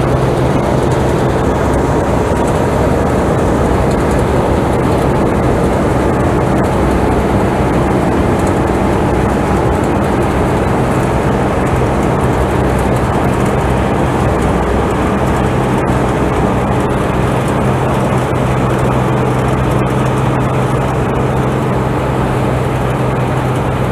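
Harvesting machine's engine running steadily under load, a constant low drone.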